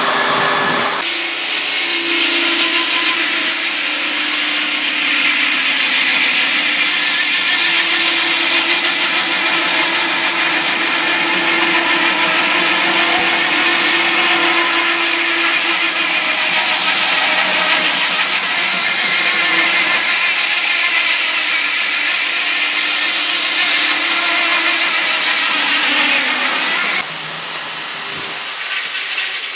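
Sawmill saw cutting through a log: a steady, loud mix of hiss and whine that changes about a second in and again near the end.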